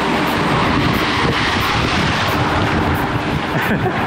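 Wind blowing over the camera microphone: a steady, loud rushing rumble.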